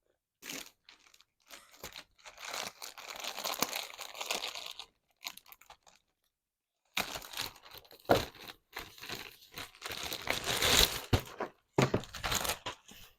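Packaging being torn open and crinkled by hand, in two stretches of rustling and tearing with a short break between.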